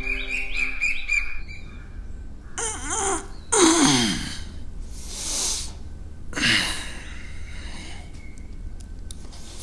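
Four harsh bird calls, each about half a second long and falling in pitch, over a low steady hum; soft background music fades out in the first second or so.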